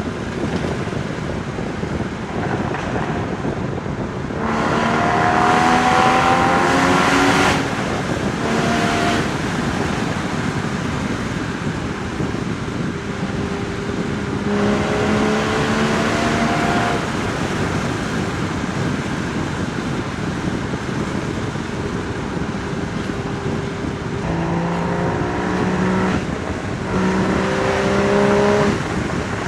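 Porsche Boxster Spyder 981's 3.8-litre flat-six exhaust under acceleration, its note rising in pitch about five seconds in and again around fourteen seconds. Near the end comes a run of short rising pulls broken by gear changes. Steady wind noise runs underneath.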